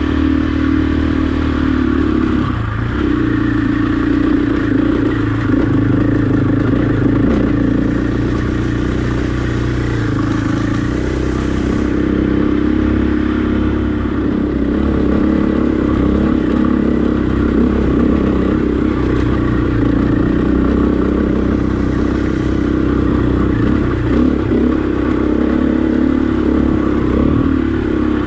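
Husqvarna enduro dirt bike engine running while riding a trail, its pitch rising and falling with the throttle.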